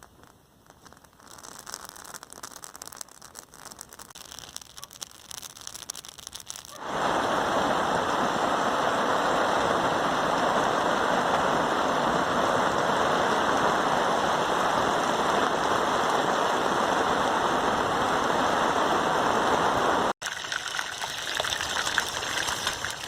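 Rain: a light crackly pattering of drops, which switches abruptly about seven seconds in to the loud, steady hiss of heavy rain. The hiss breaks off near the end and gives way to lighter pattering again.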